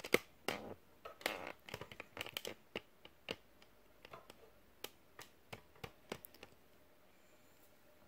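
Irregular light clicks and a few short scrapes from a knife and its ViperSharp guided sharpener being handled, steel and stone knocking and rubbing. The sounds stop about six and a half seconds in.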